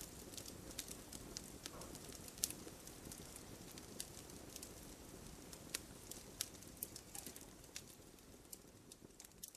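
Wood campfire crackling: irregular sharp pops and snaps over a soft low rush of burning, the loudest pop about two seconds in, growing gradually quieter toward the end.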